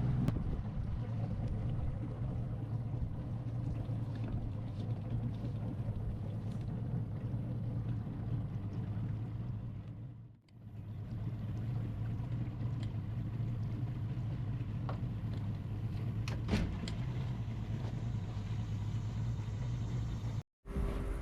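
A boat motor running steadily at a constant low hum, cutting out briefly about halfway through.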